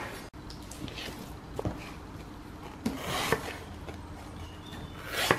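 A sponge being cut: a few soft rasping strokes, the strongest about three seconds in and again near the end, with small clicks between.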